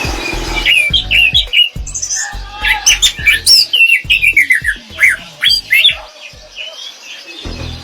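Orange-headed thrush singing a long, fast run of varied whistled and squeaky notes, its 'ngerol' song; it begins about a second in, eases off for a moment near the end, then picks up again.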